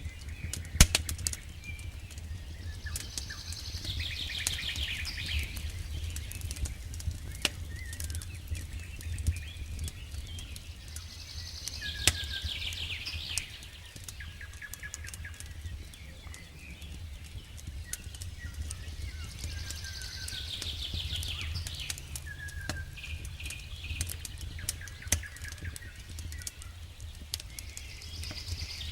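Campfire crackling with sharp pops and snaps of burning wood. A songbird sings a trilled phrase of about two seconds that slides downward and comes back roughly every eight seconds, with short high notes in between. A low steady rumble runs underneath.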